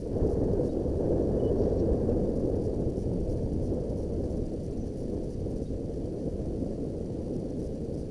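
Riding a Yamaha WR125X 125 cc single-cylinder motorcycle: a steady rush of wind buffeting the microphone over the running engine, loudest about two seconds in and easing a little after.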